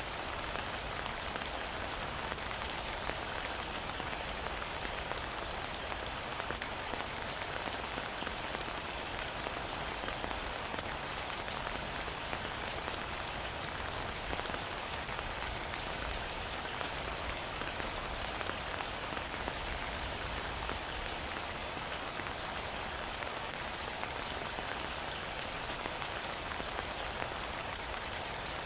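Heavy rain falling steadily: a dense, even hiss of rain with no let-up.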